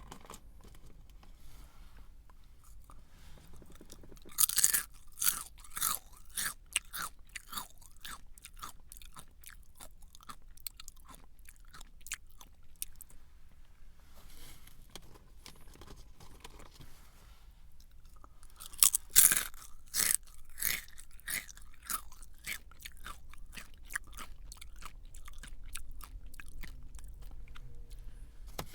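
A person biting into a crunchy snack and chewing it, twice: a loud crunching bite about four seconds in followed by several seconds of crunchy chewing that fades, then a second bite and chewing run a little past halfway.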